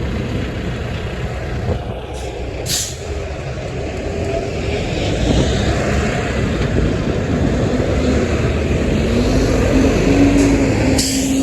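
Truck on the road, its engine rumble building as it draws near, with a steady engine tone rising slightly over the last few seconds. Two short hisses, one about three seconds in and one near the end.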